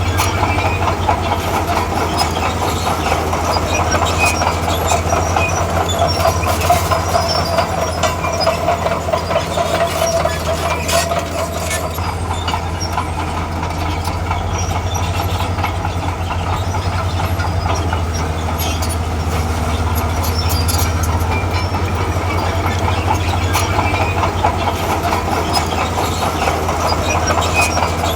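Diesel engine of a tracked earthmover running steadily under work, with the rattle and clank of its steel track chains.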